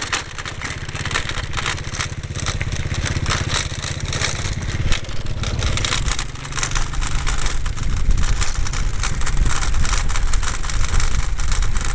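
Honda Dream motorbike's small single-cylinder four-stroke engine running while being ridden, with the tyres crunching over gravel and wind noise on the microphone. The engine grows louder in the second half.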